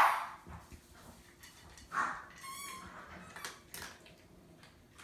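Dog sounds: a loud sharp sound right at the start, a short burst about two seconds in, then a brief high whine, followed by a few light clicks.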